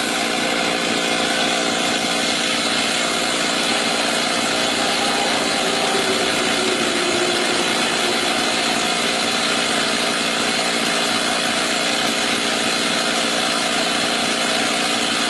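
Two-stroke chainsaw engine idling steadily after a cut, its pitch unchanging.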